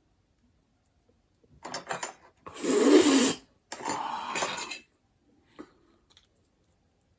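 Dishes and cutlery being handled: three bursts of clattering and scraping over about three seconds, the middle one loudest, then a faint tap.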